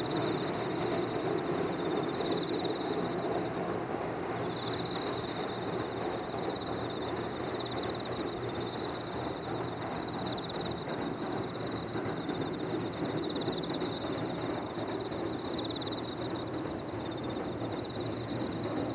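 Insects chirping in steady, pulsing trills over a continuous low rumble.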